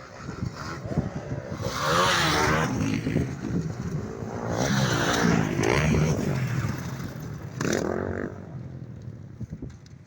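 Motocross bikes revving on the track, engine pitch climbing and falling with the throttle, loudest about two seconds in and again around five to six seconds.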